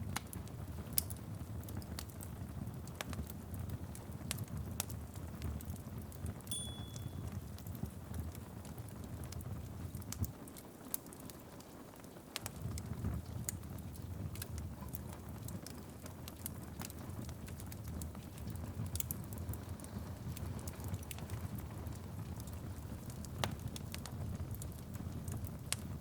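Wood fire in a fireplace crackling, with frequent sharp irregular pops over a low steady rumble and a faint hiss of rain. The rumble drops away briefly a little before halfway. A short high whistle sounds about six and a half seconds in.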